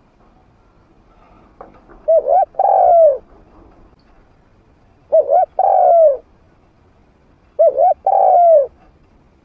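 A trained spotted dove with a medium-pitched voice cooing three times, about two and a half seconds apart. Each call is two short coos followed by a longer coo that falls in pitch.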